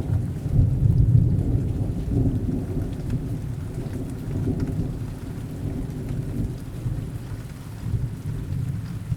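Rain with a low rolling thunder rumble, loudest in the first two seconds and slowly dying away.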